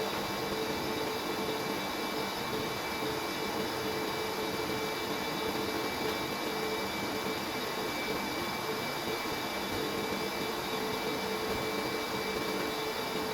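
Steady mechanical whirring with a constant hum, unchanging throughout.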